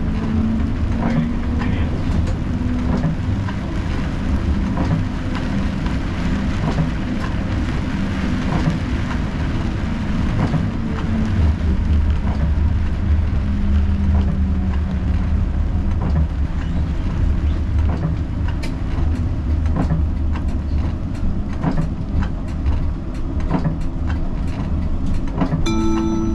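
Siemens Combino tram running along street track, heard from the driver's cab: a steady low rumble with a hum, and scattered clicks and knocks from the wheels over rail joints and track. A short chime sounds about a second before the end.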